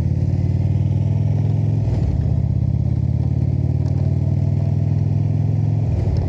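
Indian motorcycle's V-twin engine running under way, riding at steady throttle. Its note breaks briefly about two seconds in and again near the end.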